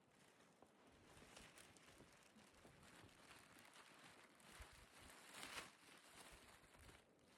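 Near silence with faint rustling noise, a little stronger just past the middle.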